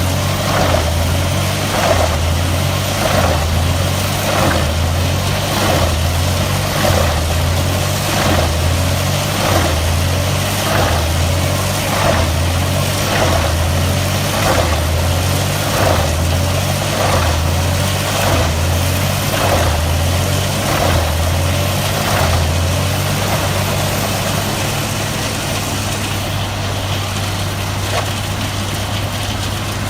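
Large mobile wood chipper's diesel engine and drum running with a regular pulse about once a second. About 23 seconds in, the pulse stops and it settles into a steady hum.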